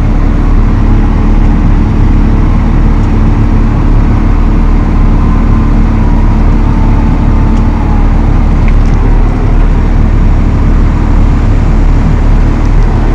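Valtra T214 tractor's six-cylinder diesel engine running steadily at a constant, loud drone.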